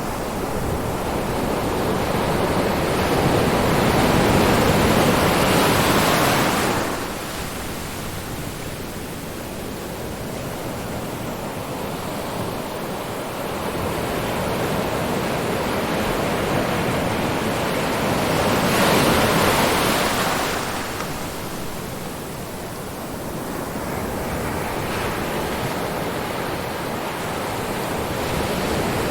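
Ocean surf: waves breaking on a shore over a steady wash of water. Two big waves build and crash, one in the first few seconds and one about two-thirds of the way through, each falling away fairly quickly.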